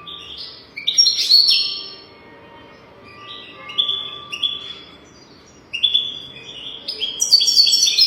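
European goldfinch singing: several bursts of quick, high twittering notes with short pauses between them, loudest about a second in and again near the end.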